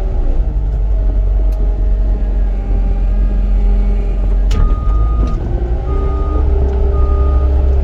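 Caterpillar 259D compact track loader's diesel engine running with a deep steady rumble. About halfway through there is a sharp clunk, then a high backup alarm beeps about once a second, the sign that the machine is reversing.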